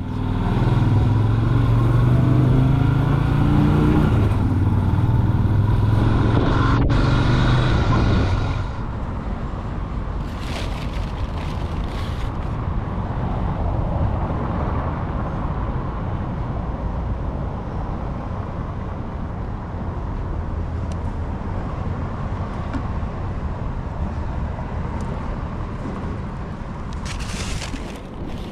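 Motorcycle engine pulling away and rising in pitch for about the first eight seconds, then a steady, quieter rushing noise of riding.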